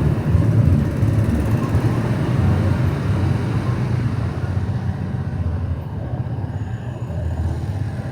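Motorcycle engine running steadily while riding along a road, slowly growing a little quieter.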